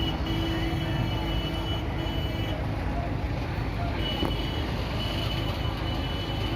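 Heavy vehicle engines running with a continuous low rumble, while a steady electronic-sounding tone holds for a couple of seconds, stops, and comes back about four seconds in.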